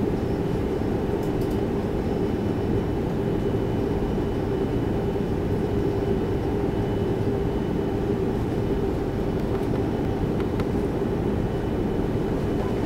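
Steady rumble and hiss of an Airbus A330-300 airliner heard from inside the passenger cabin, with a few faint clicks.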